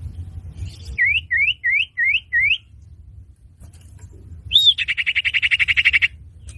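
Common iora (cipoh) calling: five quick upward-slurred whistles in a row, then after a short pause one rising-falling note leading into a fast, dry rattling trill of about fifteen notes a second, lasting over a second. A steady low rumble runs underneath.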